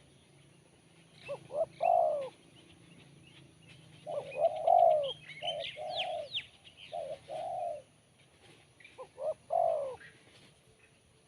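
Spotted dove (tekukur) cooing in three phrases, each of short notes leading into a longer, rounder coo. Small birds chirp faintly in the background during the middle phrase.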